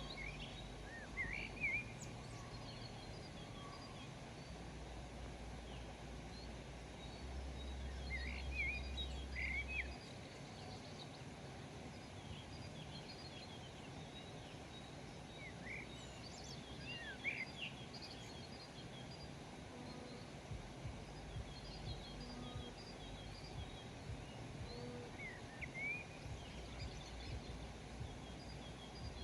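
Small birds chirping in scattered short, sweeping calls, with faint high twittering at intervals, over a steady quiet outdoor hiss.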